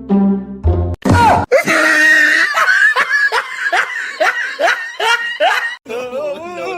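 Background music for about the first second, then a person laughing hard in a rapid run of short laughs, with more laughing, voice-like sounds near the end.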